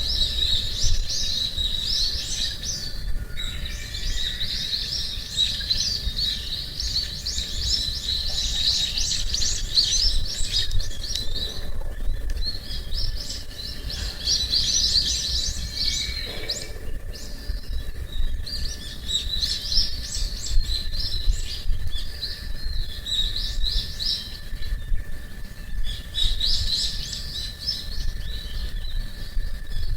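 Wild songbirds singing in long runs of fast chirping, with short pauses between phrases, over a low steady rumble.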